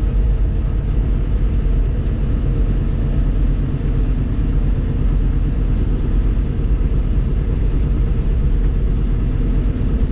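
Steady engine and road rumble heard from inside the cab of a moving truck.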